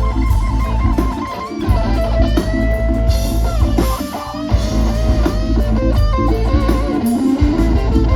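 Live band playing an instrumental passage: an electric guitar lead with held, wavering notes over bass and drums.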